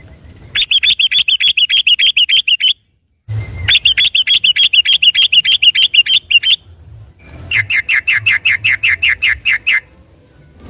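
Sooty-headed bulbul (trucukan) singing a fast 'ropel' song: three bursts of rapidly repeated chirps, about eight a second, each burst two to three seconds long.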